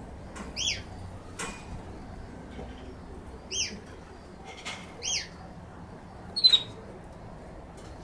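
A bird calling: three short, high chirps that fall in pitch, spaced a few seconds apart, then a louder, sharper call about six and a half seconds in.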